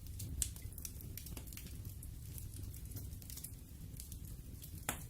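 Campfire crackling: scattered sharp pops and snaps of burning wood over a steady low rumble, with two louder pops, one about half a second in and one near the end.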